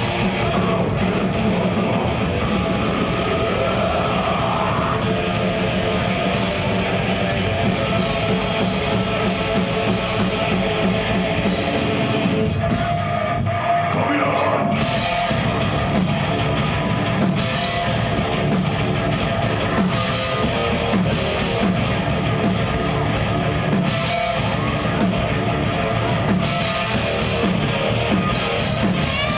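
Death metal band playing live: distorted electric guitars and drum kit, loud and continuous, briefly thinning out about halfway through.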